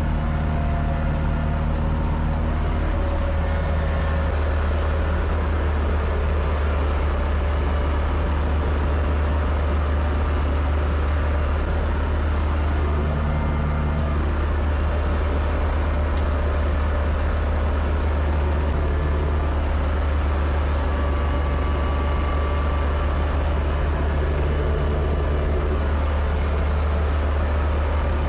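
Kubota tractor engine running steadily at a constant low drone.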